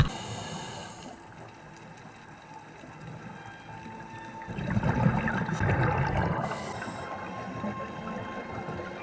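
Underwater scuba breathing: a short hiss from the regulator, then exhaled bubbles gurgling for about two seconds from roughly halfway through.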